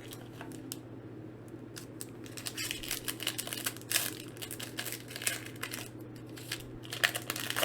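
Foil Pokémon booster pack wrapper crinkling as it is handled, in quick irregular crackles that grow busier a few seconds in.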